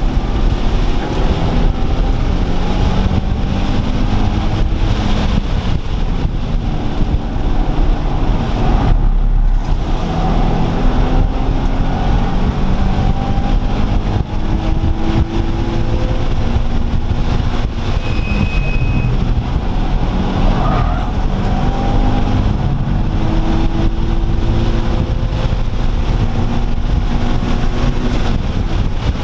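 Car engines accelerating hard again and again, their pitch climbing in a series of rising pulls a few seconds long, over a constant heavy low rumble.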